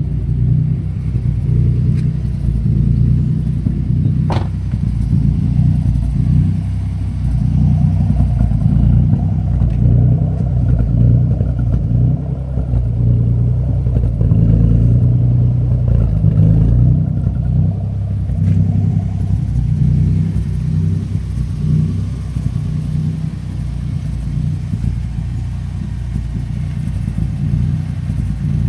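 Twin-turbocharged 2011 Ford Mustang V6, bored out to 3.9 litres, idling with a steady but uneven low rumble that grows a little fuller midway through. A single sharp click sounds about four seconds in.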